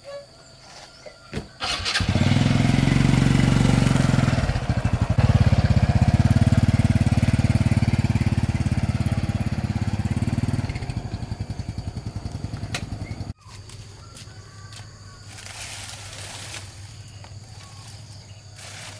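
An engine starts up about two seconds in and runs steadily for several seconds, with a brief dip partway through, then slows and dies away. The sound cuts off abruptly about two-thirds of the way through, leaving faint outdoor background.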